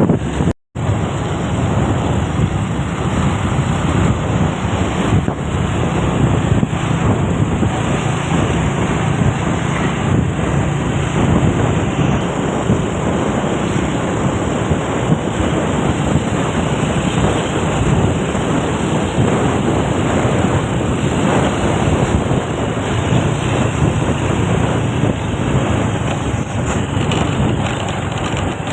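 Truck running along the road, a steady rush of engine and road noise with wind buffeting the microphone. The sound cuts out for a split second about half a second in.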